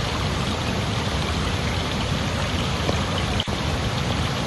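Flowing water rushing steadily, as from a stream, with a momentary break in the sound about three and a half seconds in.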